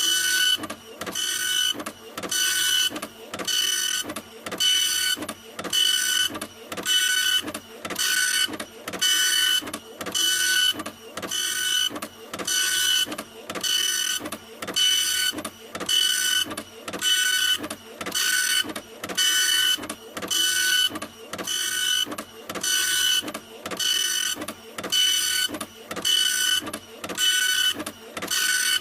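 A printer running in a steady repeating cycle, a little over once a second: a whining mechanical sound broken by a short dip between cycles.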